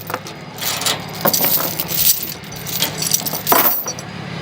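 Metal clinking and rattling as tie-down hardware is handled to unload a tractor from a trailer, with a few sharper clanks among lighter jingling. A steady low hum runs underneath.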